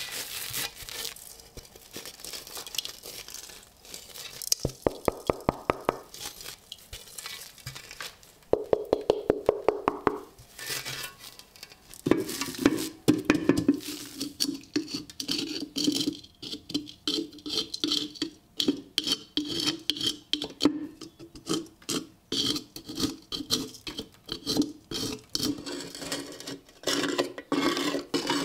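Hand work on a rusty steel helmet: two short runs of rapid, evenly spaced metallic clicks with a ringing note, then a long series of repeated scraping strokes on the metal.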